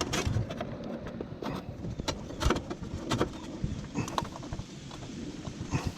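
Scattered metallic clicks and knocks of hand tools and fasteners as a part is refastened inside a generator housing, over steady rain.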